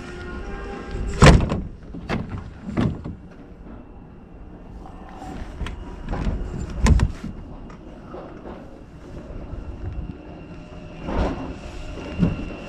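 A series of heavy knocks and thumps, about six in all, the loudest about a second in and just before seven seconds.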